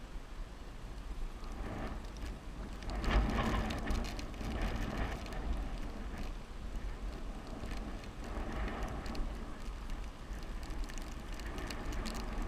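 Wind rushing over the microphone with tyre and road rumble from a bicycle coasting downhill. The noise swells about three seconds in.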